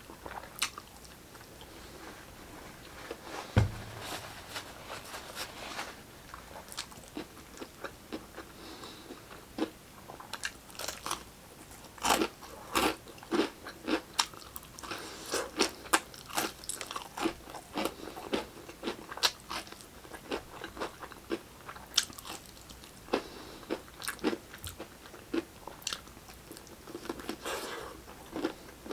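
Close-miked eating of fried chicken: crisp breading crunching under repeated bites, with irregular chewing in between. A single low thump about three and a half seconds in.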